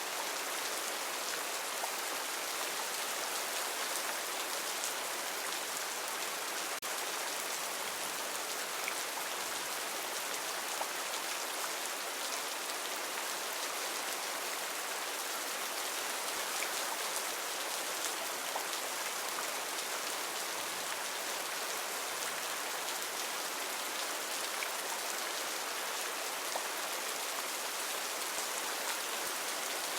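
Heavy rain falling steadily, a dense even hiss of drops with fine patters mixed in.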